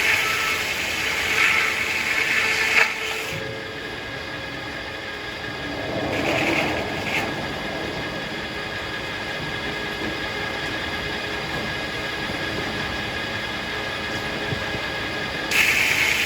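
Circular sawmill machinery running with a steady mechanical hum, growing louder and harsher during the first three seconds, briefly around six seconds in, and again near the end.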